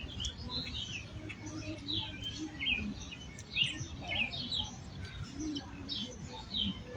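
Small birds chirping over and over, short high calls that sweep downward, with a steady low rumble underneath.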